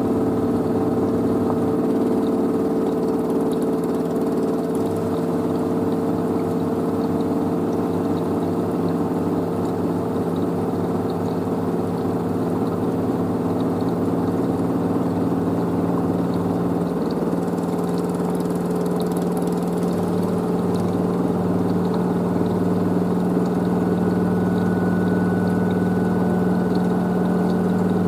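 LG DirectDrive F1496AD washer dryer's direct-drive motor spinning the drum on a spin cycle, a steady hum with several held tones.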